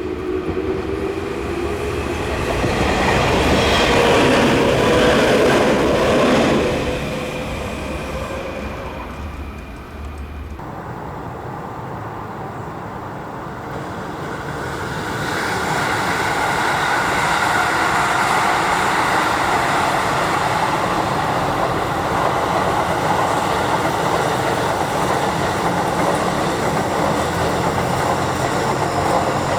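Electric commuter trains running by. A Tokyu 1000 series train passes loudest about three to six seconds in. After a cut about ten seconds in, a Keikyu 1000 type train approaches with a steady whine that grows louder.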